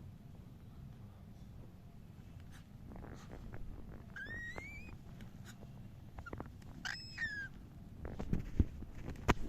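Cockatiel giving two short whistled chirps, the first rising in pitch, the second ending in a falling slide. Near the end come a few sharp taps or knocks.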